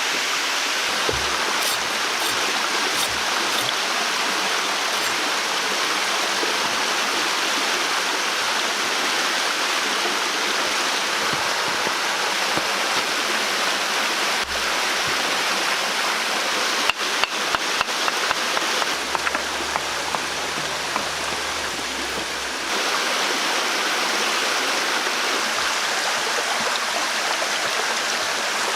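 Steady rushing of flowing water. About two-thirds of the way through, a quick run of sharp clicks sounds over it.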